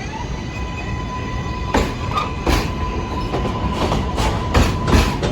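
Subway train passing through the station: a steady high whine from the traction motors, joined about two seconds in by wheels clacking over rail joints, the clacks growing louder and more frequent.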